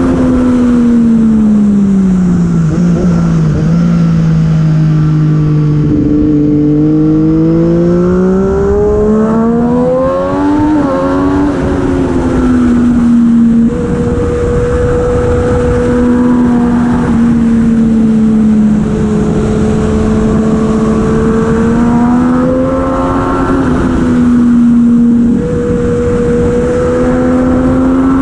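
Superbike engine at race speed, heard on board over a steady rush of wind noise. The revs drop over the first few seconds, climb again through a string of gear changes, then hold high with brief dips, with a sharper drop near the end.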